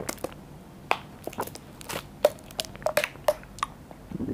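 Close mouth sounds of a person drinking from a plastic bottle of grape-flavoured green tea and then chewing the springy bits in the drink: irregular small wet clicks and squishes, about a dozen.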